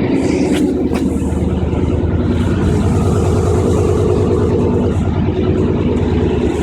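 Chevrolet 350 small-block V8 with throttle-body injection running at a steady, throaty idle through a Cherry Bomb Extreme muffler, single in and dual out, with an even low exhaust pulse.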